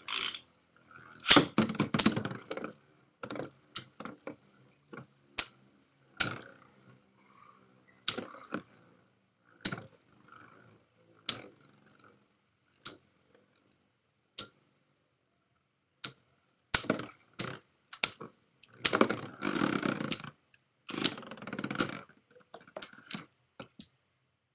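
Beyblade spinning tops with metal fusion wheels clacking against each other and the stadium wall: sharp single hits about every second or so, with bursts of rapid rattling clashes near the end.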